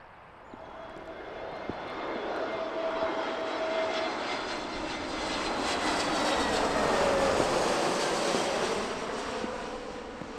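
An airliner passing by. Its engine noise builds over several seconds, peaks past the middle with a tone that drops in pitch as it goes by, then begins to fade.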